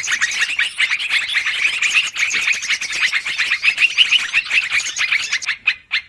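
Yellow-vented bulbuls (trucukan) chattering noisily in a rapid, dense run of chirps, thinning to separate notes with short gaps near the end; a recording played as a bird lure.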